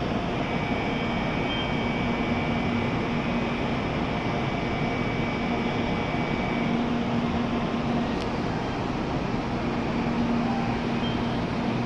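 Steady hum and fan noise of an N700-series Shinkansen train standing at the platform, its air-conditioning and cooling equipment running. A thin high whine fades out after about six seconds, and a single click sounds about eight seconds in.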